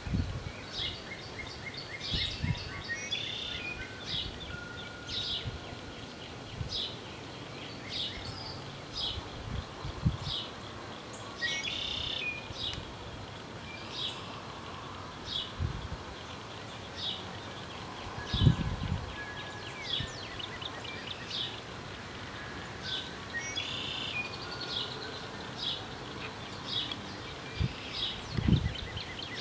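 Wild birds calling in the trees: a short high chirp repeated about once a second, with three longer, fuller calls spread through, over a steady outdoor background. A few brief low thumps, the loudest about two-thirds of the way through.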